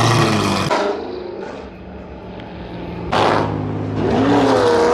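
Car engine revving loud, easing off after about a second, then revving hard again about three seconds in, its pitch climbing.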